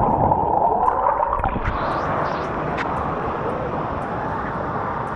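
Steady rush of water and air while riding down a water-park slide, the flow and wind noise loud on the camera microphone.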